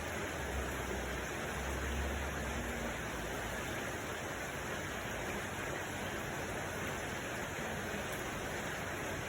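Steady, even rushing noise with no distinct events; a low rumble swells and fades twice in the first three seconds.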